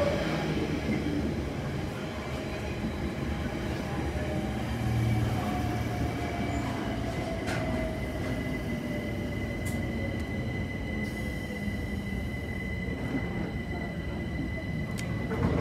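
Bakerloo line 1972 Stock tube train pulling into the platform, its motor whine falling in pitch as it slows, over the rumble of a container freight train passing on the next tracks. Then a steady high tone while the tube train stands at the platform.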